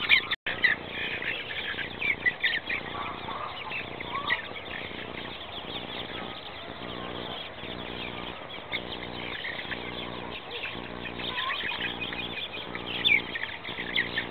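A flock of young chickens peeping and cheeping, many short high calls overlapping. From about halfway in, a low pulsing hum joins underneath.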